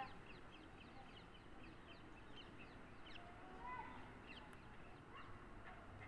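Faint birdsong from small birds: many short, quick chirps scattered throughout, with a quieter held note about three to four seconds in.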